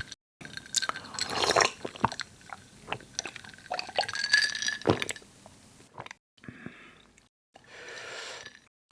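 Close-up drinking of a carbonated soft drink: sips, swallows and wet mouth sounds in an irregular string, softer toward the end.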